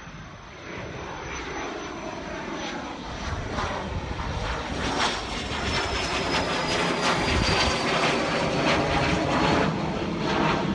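An airplane's engines at takeoff power, growing steadily louder, with a high whine that slowly drops in pitch.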